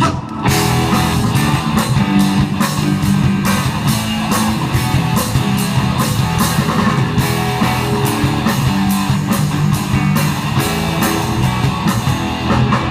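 Live rock band playing an instrumental passage: guitar over bass and a drum kit keeping a steady beat, the full band coming in loudly right at the start.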